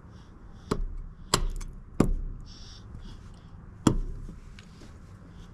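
Four sharp chopping strikes into wood: three in quick succession, then one more after a pause of nearly two seconds.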